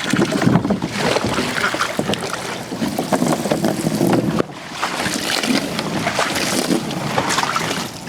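Water running and splashing, with a brief dip about halfway through.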